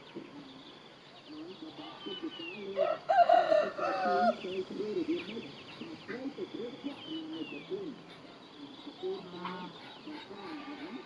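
A rooster crows once, about three seconds in, the loudest sound here. Short high falling chirps and smaller low calls go on around it.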